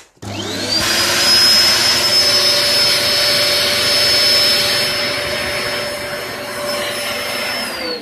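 Hoover Performer Pet upright vacuum cleaner switched on with a click. Its motor spins up over about half a second to a steady, loud high whine over a rush of air. Near the end it is switched off and the whine falls as the motor runs down. It is running with its airflow choked by a blockage at the articulating knuckle.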